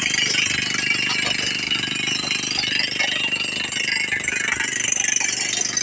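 Crawler drilling rig running in an open-cast mine, a steady mechanical din with a fast rattle from the percussive drilling.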